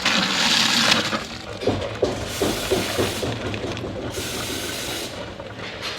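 Colostrum hissing and splashing as it flows into a pail, loudest in the first second.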